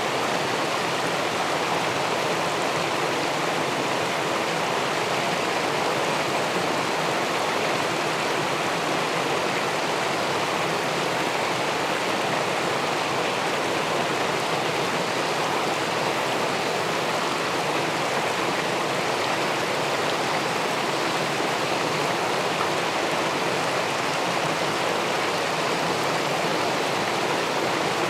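Water pouring over a river weir and rushing into the pool below, a steady, unbroken rush of flowing water.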